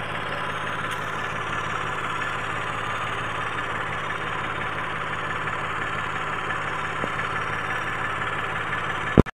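Mitsubishi Mirage engine idling steadily, running again after a cranking-but-won't-start fault. A sharp thump near the end, then the sound cuts off suddenly.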